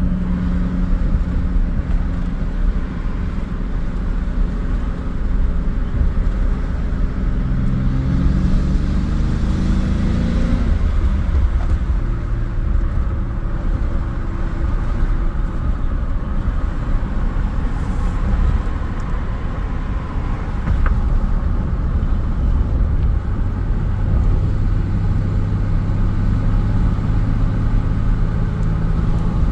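Chevy S10's 4.3 Vortec V6 with Holley Sniper fuel injection driving, heard from inside the cab over steady road rumble. The engine note climbs from about seven seconds in and drops back near eleven seconds as it shifts up, then holds steady and rises slowly again near the end. The engine is still cold and running rich on the Sniper's warm-up fuel enrichment.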